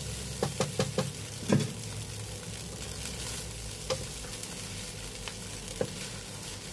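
Brown fried rice sizzling in a hot pan as it is stirred and tossed with a wooden spatula, the utensils knocking against the pan several times in the first second and a half and twice more later.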